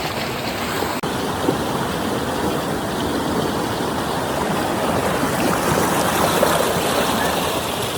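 Flowing water: a stream rushing and splashing steadily, with no pauses.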